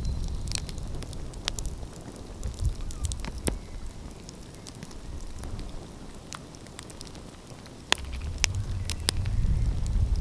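Wood fire crackling, with sharp pops scattered irregularly through it. Under it runs a low rumble that swells over the last couple of seconds.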